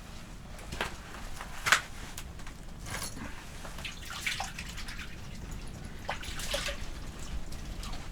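Water dripping and splashing off a freshly landed fish, with scattered small clicks and knocks as it is handled; one sharper knock comes under two seconds in.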